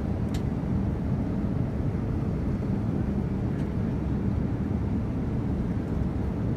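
Steady low cabin roar of a Boeing 787-9 airliner in flight on its approach: engine and airflow noise heard from a passenger seat, with a faint click just after the start.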